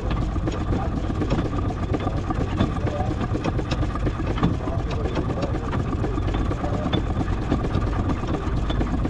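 Miniature steam traction engine running as it crawls along in bottom gear: a steady mechanical rumble with irregular light clicks and knocks.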